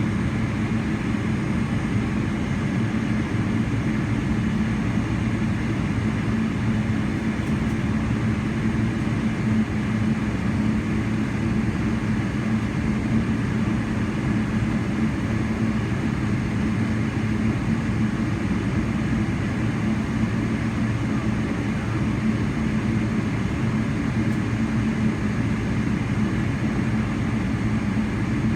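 Steady jet engine and airflow noise inside the cabin of a Boeing 777-300ER, a constant low hum with rushing noise over it and no change in pitch or level.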